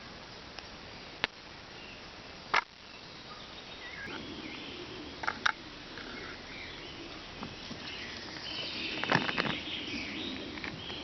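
A few sharp knocks and clicks of cookware being handled at an outdoor cooking spot, ending in a quick cluster of rattling knocks about nine seconds in, over a steady outdoor background.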